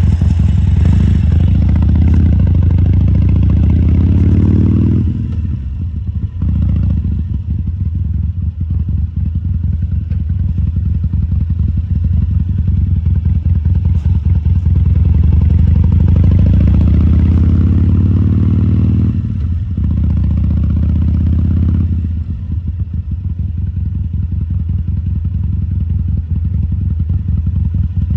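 2014 Harley-Davidson Sportster 1200 Custom's air-cooled 1200 cc V-twin running while ridden: the revs climb until about five seconds in, then drop back to a low, uneven beat. It climbs again from about twelve seconds to about nineteen, drops back, and stays low and uneven.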